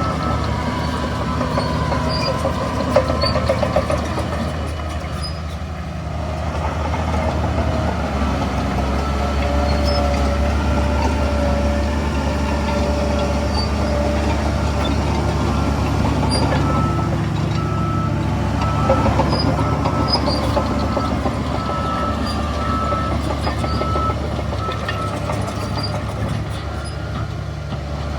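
Heavy diesel engines of a bulldozer and a dump truck running steadily, the low engine note growing stronger about a third of the way in. A truck's reversing alarm beeps evenly through the second half.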